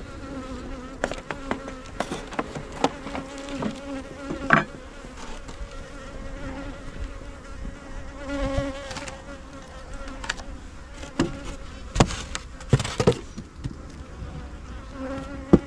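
Honey bees buzzing around an open hive, a steady hum, with frequent sharp clicks and knocks as the hive is handled and closed back up.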